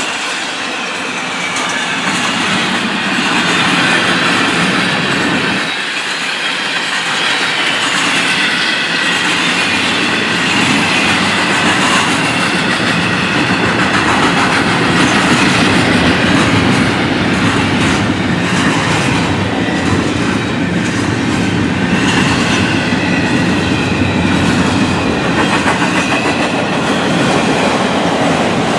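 A train passing close by, its wheels running loudly and steadily over the rails, with a faint high squeal from the wheels.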